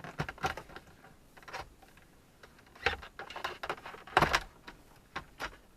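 Hard plastic clicking and rattling as the Supra's HVAC control unit is worked loose and slid out of the dashboard, in irregular short clicks with a louder knock about four seconds in.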